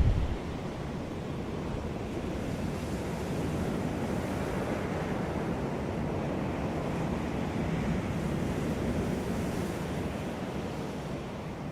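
Ocean surf washing onto a beach, a steady rush that swells and eases slowly. A brief low buffet of wind on the microphone right at the start.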